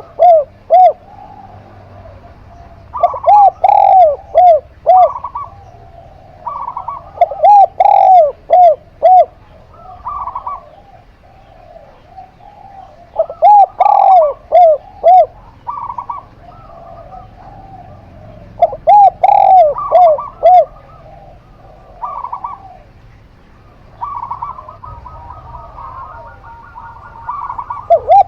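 Caged doves cooing in turn: a zebra dove (perkutut) and a spotted dove (tekukur). A loud phrase of several quick, arched cooing notes comes back every five or six seconds. Softer, higher coos come in between.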